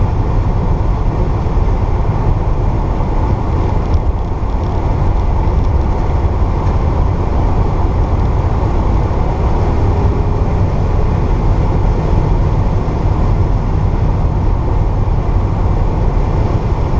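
1964 Pontiac GTO's 389 V8 running at a steady cruise under way, with road noise; the sound holds even, without revving up or down.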